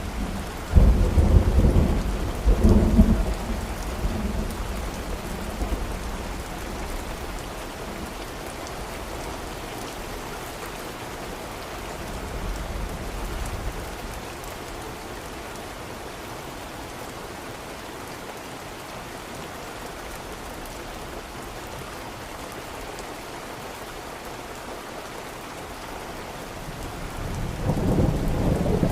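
Steady rain with thunder: rolling rumbles in the first few seconds that fade away, then a long stretch of rain alone, and a fresh roll of thunder building near the end.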